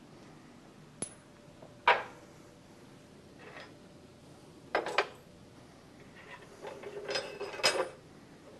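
Small metal objects being handled and set down on a hard surface: a few separate clicks and taps, then a short cluster of ringing clinks near the end.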